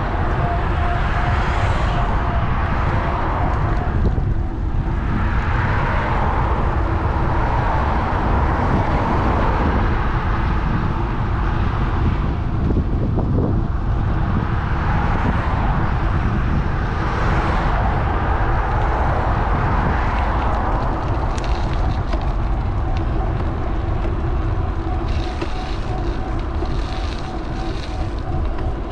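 Wind rumbling on a bike-mounted action camera's microphone during a ride, with road traffic passing in a series of swells that rise and fade every few seconds.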